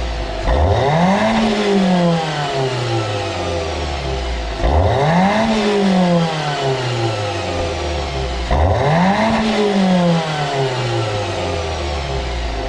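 Ford Focus Mk2.5 engine revved three times through an aftermarket single-canister, single-outlet sport rear muffler (high-tone version). Each rev climbs quickly and falls slowly back to idle.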